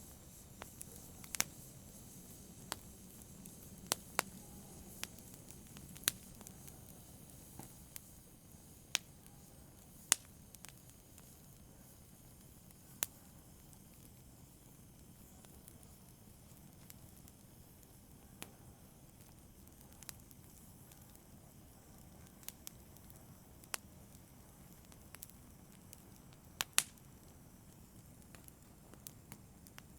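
Wood fire in a fireplace crackling, with sharp pops at irregular intervals over a soft steady hiss.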